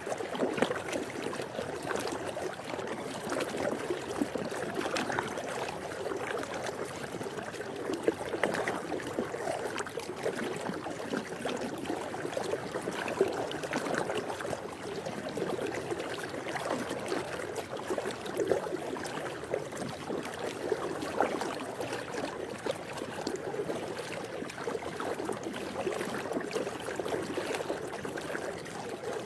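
Swimming pool water trickling and lapping steadily, with many small splashes.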